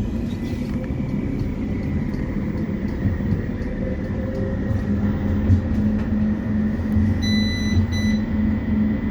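Inside a West Midlands Metro CAF Urbos 3 tram pulling away and running along the track: a steady low rumble of wheels and traction motors, with a hum growing stronger about halfway through. A short high beep sounds twice near the end.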